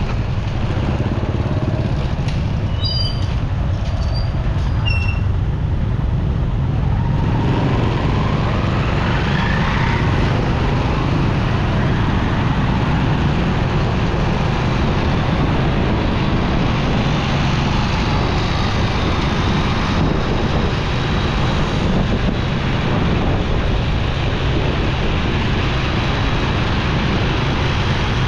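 Motorcycle running along a busy road amid traffic, its engine and road noise steady, with a few short high chirps a few seconds in and an engine note that rises as it speeds up partway through.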